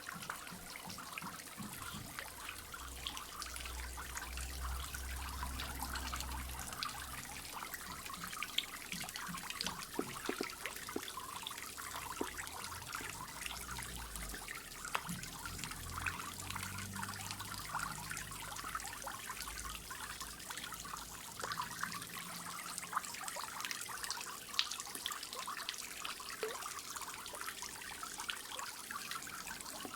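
Water from a small garden-pond waterfall trickling and splashing steadily into the pond, with a low rumble that comes and goes through the first two-thirds.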